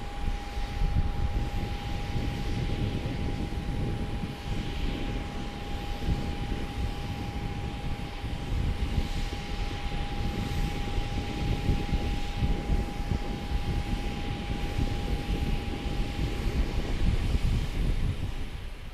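Jet airliner engines heard as a steady low rumble with a thin steady whine over it; the whine fades out near the end.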